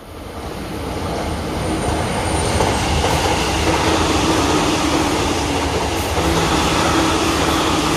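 JR East electric commuter train in green-and-orange Shonan livery approaching and passing at high speed, about 117 km/h. The running noise of wheels on rail swells over the first two seconds, then holds loud and steady as the carriages go by.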